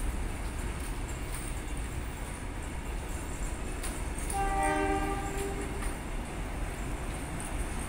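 Kuranda Scenic Railway train's heritage passenger carriages rolling slowly past with a steady low rumble. About four seconds in, the locomotive sounds one horn blast of about a second and a half, a chord of several tones.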